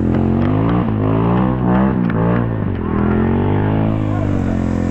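Dirt bike engine revving in waves, its pitch rising and falling repeatedly as the rider works the throttle on a muddy climb.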